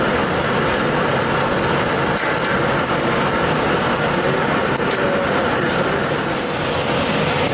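A steady, loud mechanical din with scattered sharp clicks.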